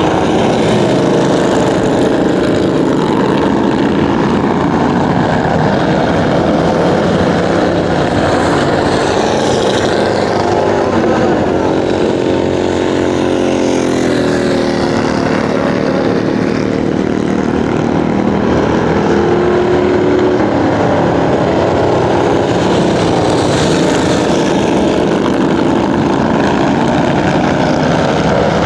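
Motorcycle engine running steadily, its pitch rising and falling a couple of times as the throttle changes.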